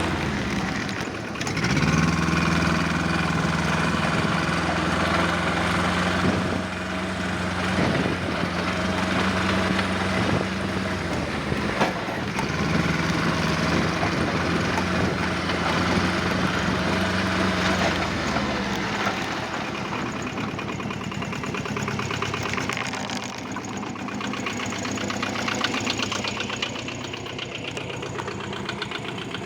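Kubota Z400 diesel engine of a homemade tractor running at a steady speed, its pitch dipping briefly a few times, then dropping about two-thirds of the way through to a lower, uneven idle.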